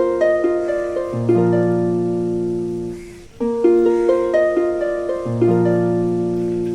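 Background instrumental music of gently plucked, harp-like notes over held bass tones, a short phrase repeating about every four seconds.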